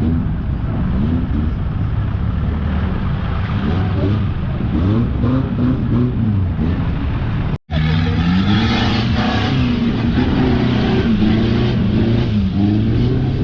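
Off-road vehicle engine running under load, its pitch rising and falling as it revs. The sound cuts out for an instant about halfway through.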